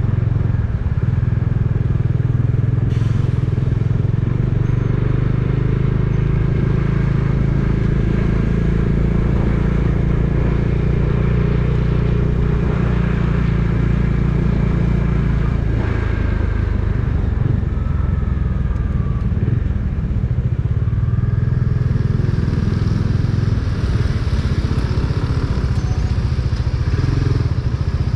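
A vehicle engine runs steadily under way, its note shifting to a different pitch a little over halfway through.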